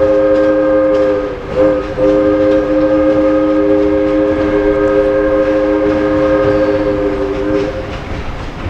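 Diesel locomotive's multi-note air horn sounding a chord: a long blast ending about a second in, a short blast, then a long blast of about five and a half seconds, the closing long-long-short-long pattern of a grade-crossing signal. The train's running rumble goes on underneath.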